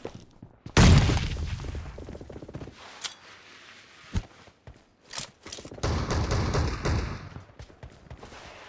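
Video game gunfire: a loud shot or short burst about a second in that dies away over a couple of seconds, a few single sharp cracks midway, and another stretch of firing around six seconds in.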